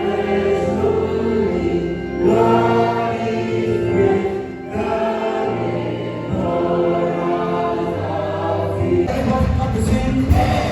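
A choir singing gospel music with held, sustained chords over instrumental accompaniment; about nine seconds in the music changes to a busier texture.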